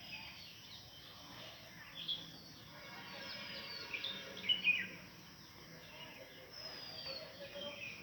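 Birds chirping and calling over steady background noise, with short chirps and falling whistles and a brief cluster of louder chirps about four and a half seconds in.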